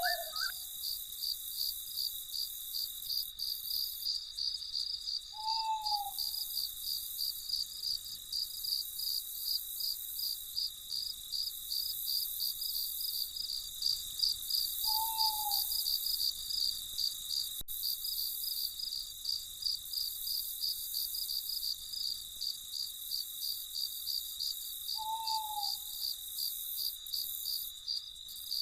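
Crickets chirping in a steady pulsing chorus, about two pulses a second, over a constant high trill. An owl gives a short, slightly falling hoot three times, about ten seconds apart.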